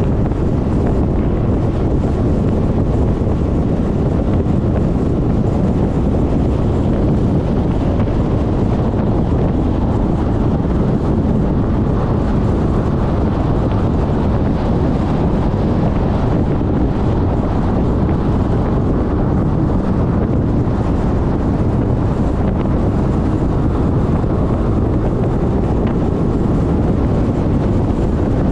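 Steady wind rumble buffeting the microphone of a camera on a moving Suzuki Burgman 400 scooter, with the scooter's engine and road noise underneath.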